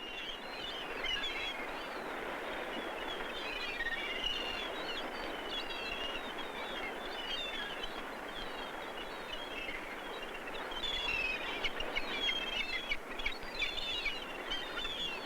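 Many birds calling at once: a chorus of short, high chirps and warbles over a steady hiss, growing busier near the end.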